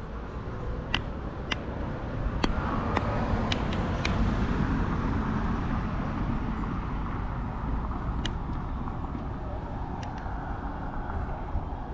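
A motor vehicle driving by on the road, its noise growing to its loudest about four seconds in and then fading away.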